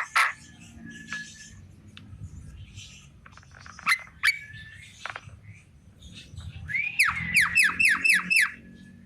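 Javan myna calling: scattered short whistles and sharp notes, then near the end a quick, loud run of about six repeated notes, each sweeping down in pitch.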